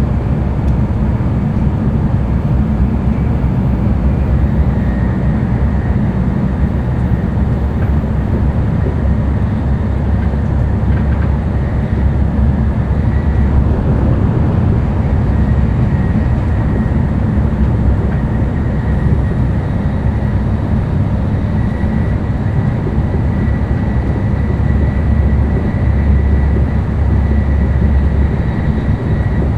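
Running noise of an N700-series Tokaido Shinkansen heard inside the passenger cabin: a steady low rumble with a faint high whine above it.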